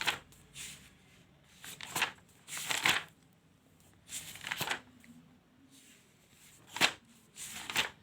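Paper pages of a notebook being turned one after another, each turn a short rustle, about six in all with pauses between them.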